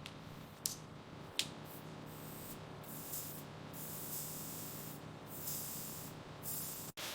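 Hissing that comes and goes in several short bursts, over a faint steady hum, with two sharp clicks in the first second and a half.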